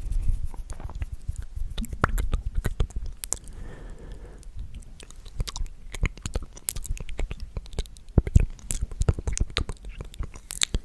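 Close-up ASMR mouth sounds: a quick, irregular run of wet clicks and smacks made right at the microphone.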